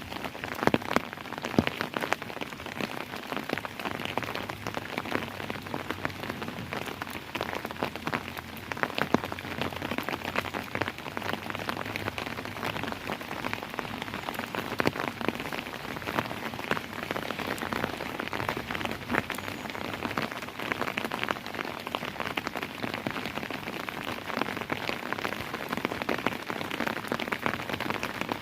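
Steady rain falling, a dense, even stream of many individual drop impacts with a few louder drops near the start.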